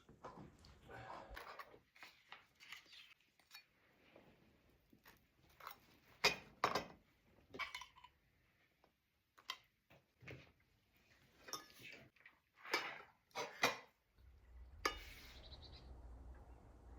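Kitchen handling sounds: dishes, pots and utensils set down and knocked together in scattered sharp clinks and knocks, a few of them louder. Near the end a low steady hum begins.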